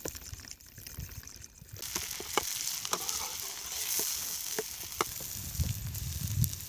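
Chopped onions and tomatoes sizzling in hot oil in a pan over a wood fire, starting about two seconds in, stirred with a metal ladle that clicks and scrapes against the pan.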